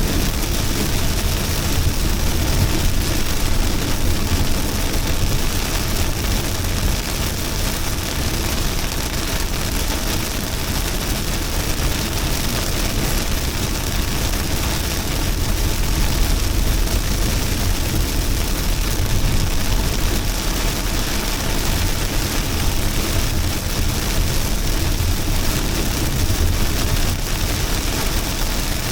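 Heavy rain falling steadily: a dense, even hiss with a deep rumble underneath.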